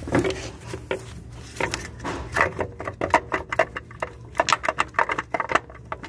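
Hand-handling clatter of a new transmission control module being lined up and jiggled onto the transmission case: a quick, uneven run of short clicks and knocks over a low steady hum.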